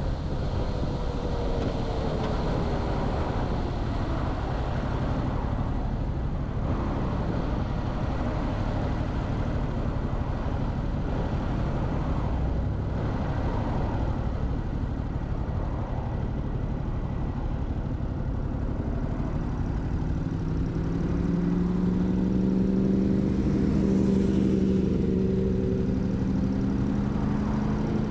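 Motorcycle on the move, with wind buffeting the microphone and road rumble throughout. An engine note falls in pitch at the start, and about two-thirds of the way through a strong engine hum rises in pitch and grows louder.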